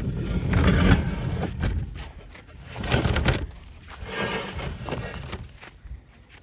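A glass table being dragged over snowy ground, scraping in about three pulls, the first the longest and loudest.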